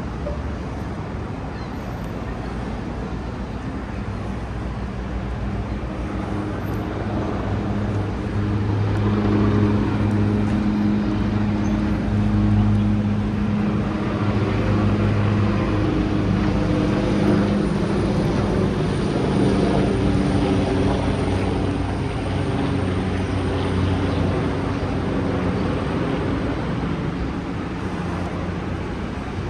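A low engine drone over city traffic noise. It swells over several seconds, holds for about ten seconds, then slowly fades, like a large engine passing by.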